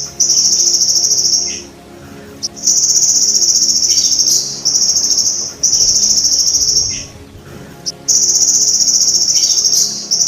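Golden grasshopper (belalang emas) singing: a loud, high, buzzing trill given in repeated bouts of one to two seconds, with short pauses between them.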